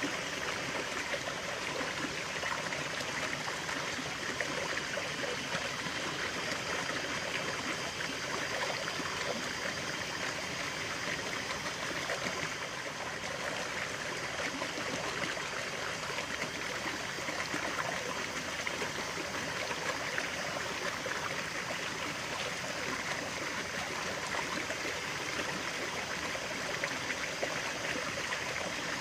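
Running water of a stream, a steady burble and trickle with no breaks.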